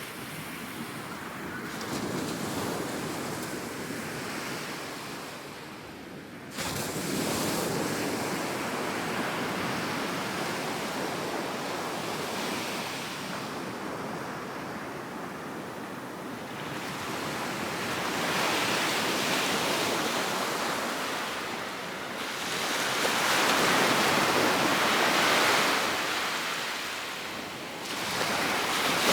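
Ocean surf washing onto a beach, with wind blowing on the microphone. The sound changes abruptly several times, growing louder toward the end.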